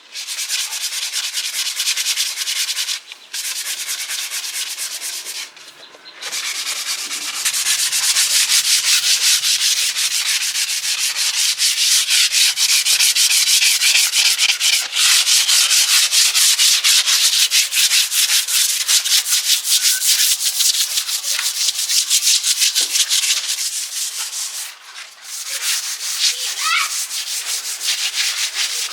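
Rapid, rhythmic sanding strokes, an abrasive rubbed quickly back and forth on a surface, with brief pauses a few seconds in and again near the end.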